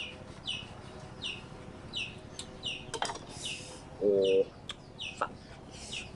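A small bird repeats a short falling chirp about every three quarters of a second. A knife scrapes the skin off a green mango in short hissy strokes. About four seconds in, a chicken gives one loud cluck.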